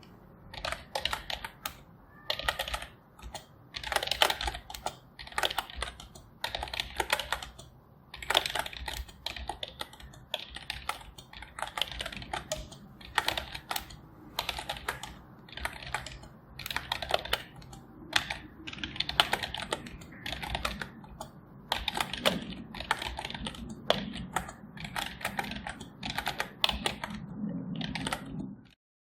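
Typing on a computer keyboard: rapid runs of keystroke clicks in short bursts, broken by brief pauses.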